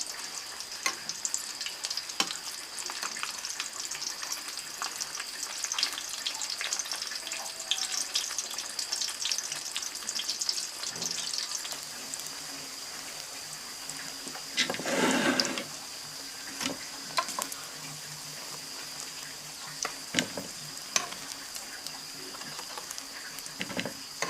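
Food preparation sounds: scattered light clicks and clatter over a steady high-pitched hum, with a brief rush of noise, like water or frying, about 15 seconds in.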